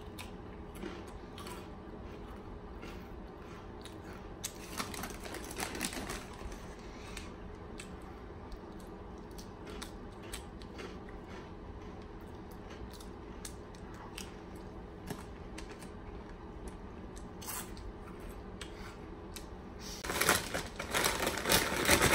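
Crunching and chewing of crisp snack chips, with small crunches scattered throughout and a denser cluster around five seconds in. Near the end a plastic snack bag crinkles loudly as it is handled.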